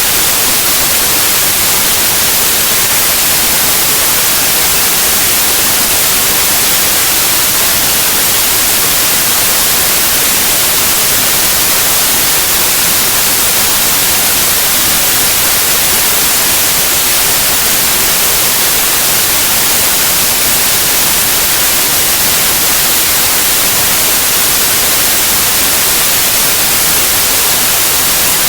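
Steady, loud white noise: an even hiss across the whole range with no changes.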